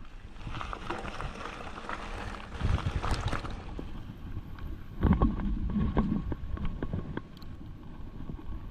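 Mountain bike ridden over rough ground: wind buffeting the microphone and tyre noise, with knocks and rattles from the bike over bumps, the heaviest jolts about three and five seconds in.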